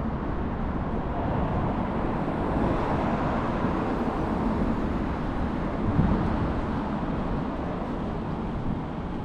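Steady city street noise: wind rumbling on the microphone over passing road traffic, swelling briefly about six seconds in.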